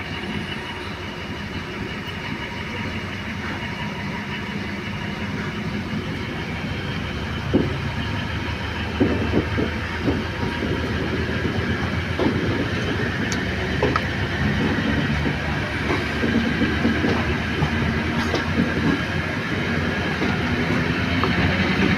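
Passenger train running along the track, heard from the side of a moving carriage: a steady rumble of wheels on rail that slowly grows louder, with scattered clacks as the wheels pass over rail joints.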